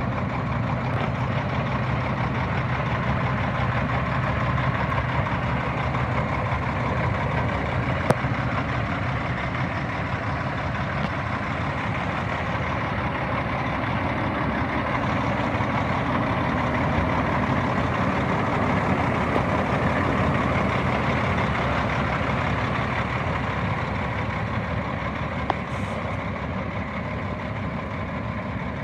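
Diesel engine of a 2006 Freightliner Columbia tandem-axle truck tractor running steadily, with a sharp click about a third of the way in and another near the end.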